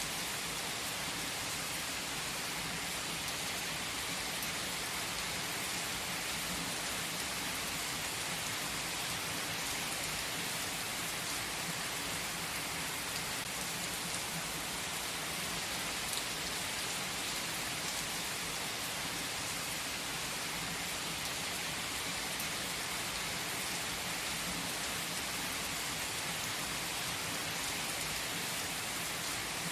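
Steady rain falling: an even, unchanging hiss with faint light patter.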